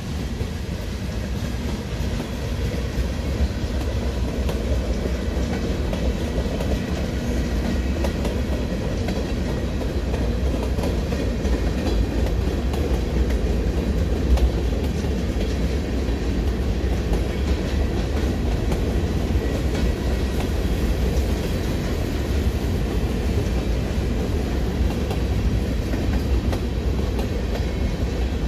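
Freight cars of a long train, gondolas, tank cars and covered hoppers, rolling past on the rails: a steady rumble of steel wheels on track with faint repeated wheel clicks.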